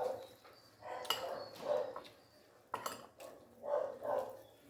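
Utensils clinking against a plate during a meal, a few separate sharp clinks, with some soft short low sounds between them.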